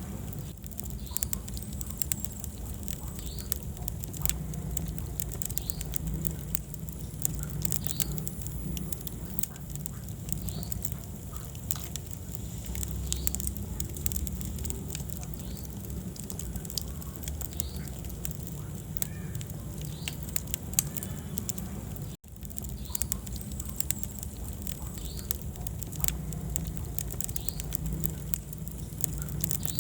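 Wood fire burning in a fireplace, crackling with frequent irregular sharp pops over a steady low rumble of the flames. The sound cuts out for a split second about two-thirds of the way through.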